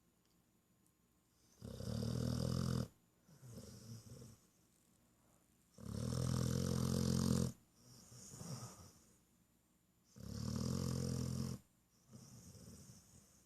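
Pit bull snoring in its sleep: three loud snores about four seconds apart, each followed by a softer one.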